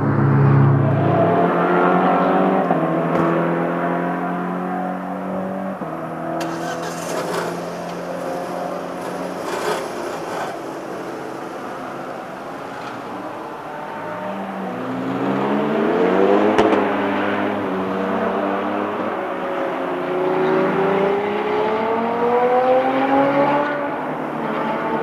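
Car engine running hard on a race circuit, its pitch climbing twice as it accelerates, about halfway through and again near the end.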